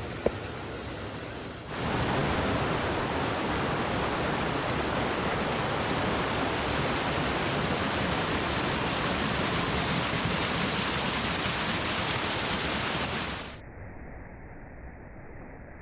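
Steady rushing of a creek's waterfall cascades running at full flow. Near the end it drops to a quieter, duller rush.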